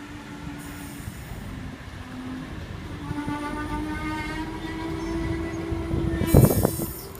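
Oscar H-set electric train pulling into the platform, its sound growing steadily louder, with a steady whine from about halfway through. A short, louder noisy burst comes near the end.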